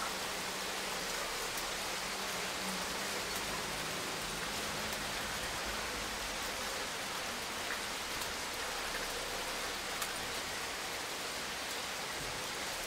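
Rain of a hailstorm falling steadily, a dense even hiss with a few sharp ticks of single impacts scattered through it.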